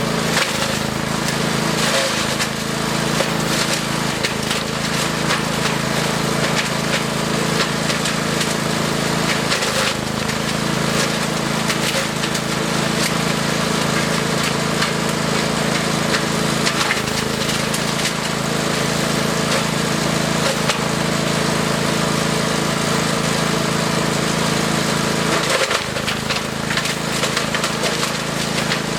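Wood chipper's engine running steadily under load while branches are fed through, with constant cracking and snapping of wood being chipped.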